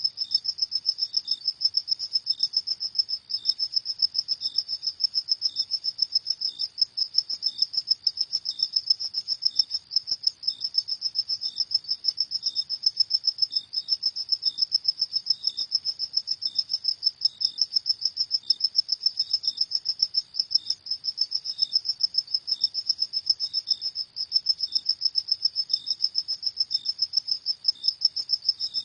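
Crickets chirping at night in a steady, rapid, high-pitched pulse of several chirps a second. A second, lower cricket chirps more slowly and irregularly alongside.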